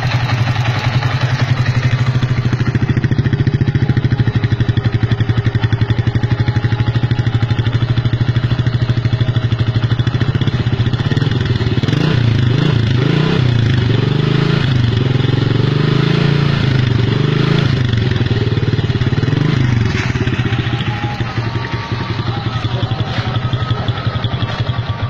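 Yamaha Jupiter MX 135 single-cylinder four-stroke engine running loud through an aftermarket FU exhaust. It idles at first, is revved up and down repeatedly from about halfway in, then settles back to a lower idle near the end.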